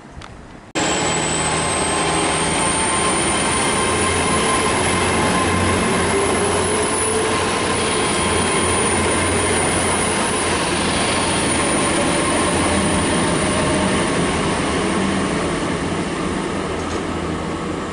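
Great Western Railway Class 800 train moving at the platform, its underfloor engines humming steadily under a thin, high-pitched wheel squeal. The sound comes in suddenly about a second in and eases slightly near the end.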